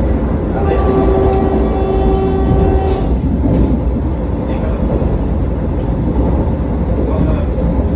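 Vande Bharat Express electric trainset running at speed through a station, heard from inside the coach: a loud, steady rumble of the train on the track. A steady pitched tone is held for about two and a half seconds near the start.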